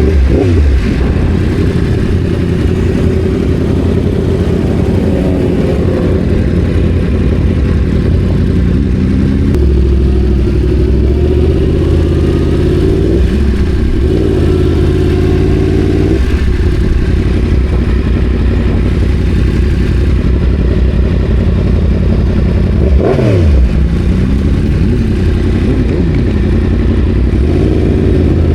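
Sport-bike engines running and revving. A motorcycle's engine note drops steeply about a second in and again about 23 seconds in.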